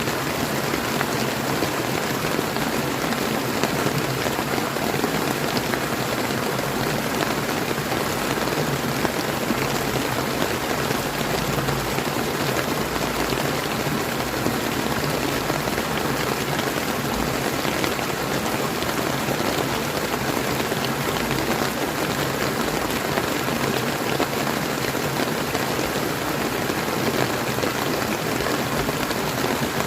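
Steady rain falling together with the flow of a clear river, an even, unbroken wash of water noise with many fine drop ticks.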